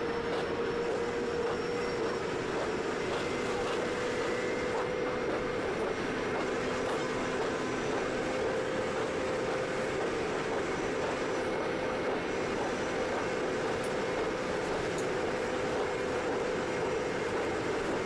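High-speed train running at speed: a steady rushing rumble with a constant hum, unbroken throughout.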